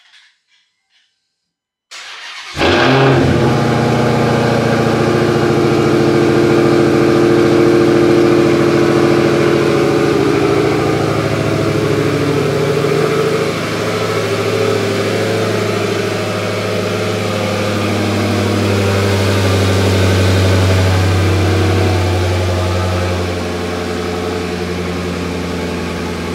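Cold start of a 2023 Dodge Hellcat Jailbreak's supercharged 6.2-litre HEMI V8, running a Stage 1 Direct Connection tune and a smaller supercharger pulley. About two seconds in, the starter cranks briefly and the engine catches with a sudden loud flare. It then settles into a loud, steady cold high idle that eases down gradually.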